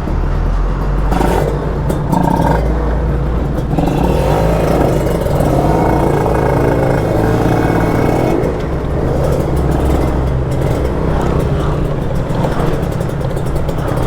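Kawasaki Ninja RR 150 two-stroke single-cylinder engine running under way, its note rising and falling with the throttle, mixed with wind rush.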